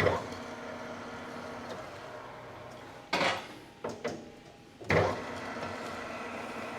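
Manual lathe being reset to a faster spindle speed because the surface speed was too slow. Four sharp clunks, at the start, around three seconds in, just after and around five seconds in, with the machine humming steadily between them.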